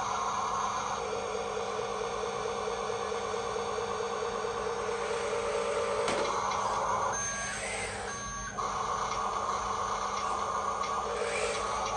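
Electric drive motor and gears of a Huina RC dump truck whirring, the pitch shifting up and down as it drives, with a few short electronic beeps.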